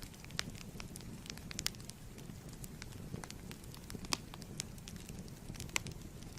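Wood fire crackling in a fireplace: a steady low rumble of flames with irregular sharp pops and snaps, two of them louder, about four and six seconds in.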